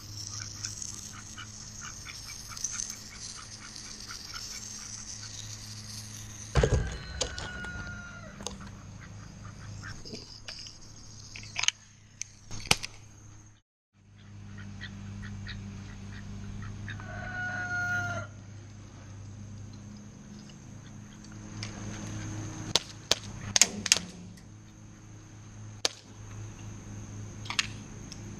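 A domestic fowl calls twice, each call about a second long with a slightly falling pitch, over a steady hum. Sharp snaps come scattered through, with a cluster near the end, fitting airsoft gun shots.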